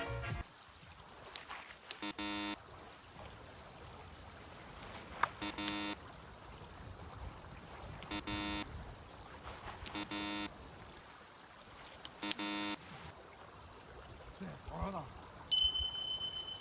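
Flowing river water as a steady background, with five short buzzy tones of one fixed pitch, each about half a second long, every two to three seconds. A clear high tone near the end.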